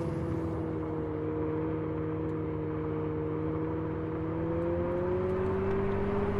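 Abarth 500e electric hot hatch driving: a low rumble under a steady hum that sags slightly, then rises in pitch near the end as it speeds up.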